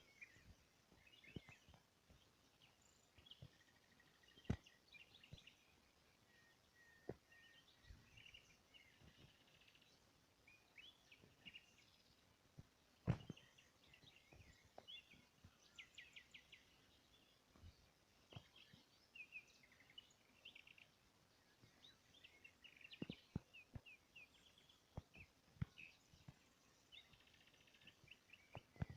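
Small birds chirping and twittering faintly, many short calls and trills overlapping, with scattered sharp clicks, the loudest about thirteen seconds in.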